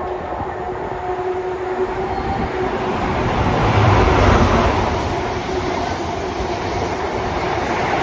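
Train passing close by, its rumble and wheel-on-rail noise building to a peak about four seconds in and then easing off, with a steady hum over the first few seconds.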